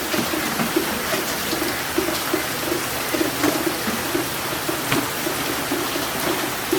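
Steady rain hissing, with a low pitched plop repeating about four times a second as rainwater drips into a collecting container.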